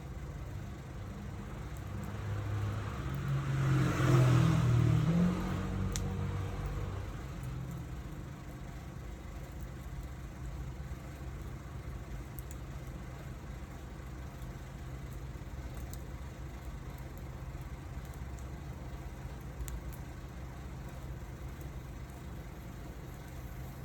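Wood fire crackling faintly, a few sharp ticks over a steady low hum. About four seconds in, a vehicle passes, its sound swelling and fading over a few seconds.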